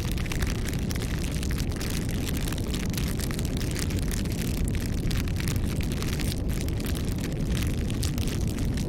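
Wood bonfire burning: a steady low rumble of flames with frequent small crackles and pops from the burning wood.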